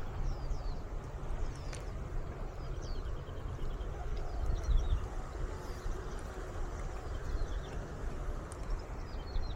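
Wild birds chirping: repeated short, downward-sliding calls and a quick run of rapid notes, over a steady low rumble of breeze on the microphone. A single sharp click comes about two seconds in.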